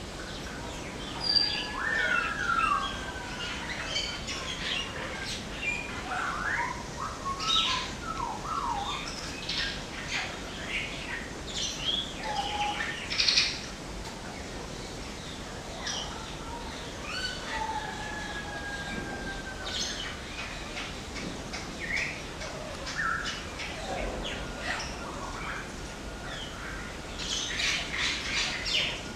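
Parrots calling: a busy mix of chirps, short whistles and squawks, some sliding up or down in pitch, coming in scattered clusters.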